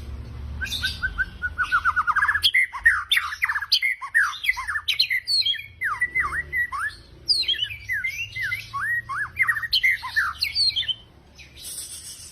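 White-rumped shama (murai batu) singing: a quick run of repeated notes climbing in pitch about a second in, then a varied stream of whistled sweeps and downward swoops that stops near the end.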